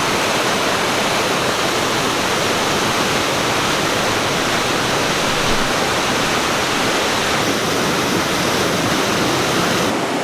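Waterfall's water rushing, a steady, loud, even noise close to the falls; the highest part of the hiss drops away suddenly near the end.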